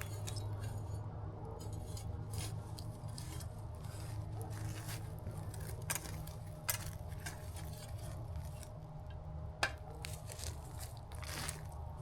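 Campfire coals being stoked: scattered crackles and light metallic clinks and scrapes of a tool against the coals and grill, with two sharper clacks, one near the middle and one a few seconds later.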